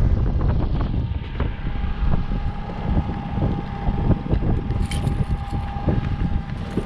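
Wind buffeting the microphone over a boat motor running steadily while trolling, with a thin steady whine.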